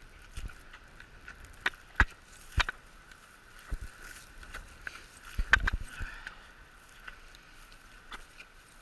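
Irregular footsteps and knocks of someone walking over wet field ground, with a cluster of heavier thuds about five and a half seconds in, over a faint steady hum.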